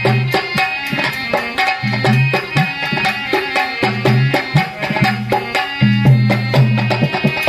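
Dholak drumming in a fast folk rhythm, with dense sharp strokes and a deep bass stroke about every two seconds, under a sustained melody line in a dehati bhajan's instrumental passage.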